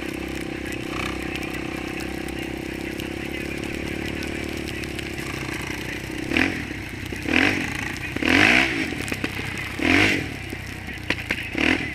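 Single-cylinder ATV engine idling steadily, then revved in five short, loud throttle blips through the second half.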